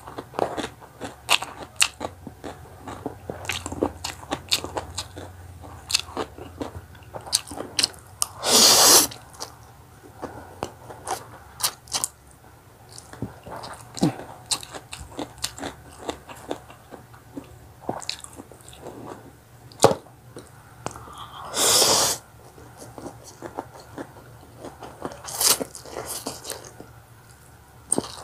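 Close-miked chewing and biting of spicy stir-fried instant pancit canton noodles, with many short wet mouth clicks. Two louder, drawn-out mouth sounds come about nine and twenty-two seconds in.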